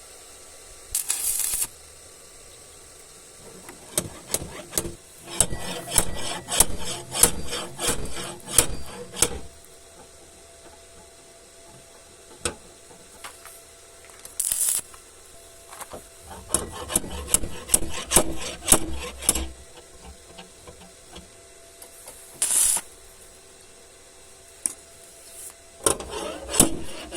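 Hand sanding on a car body panel: two long runs of rapid back-and-forth rasping strokes. Three short bursts of hiss come between them.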